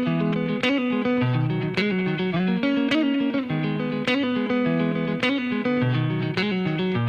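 Music: a solo electric guitar picking a fast, repeating riff at an even level.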